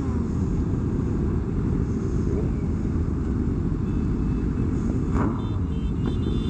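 Motorcycle riding at a steady speed: constant wind and road rush with the engine note low beneath it.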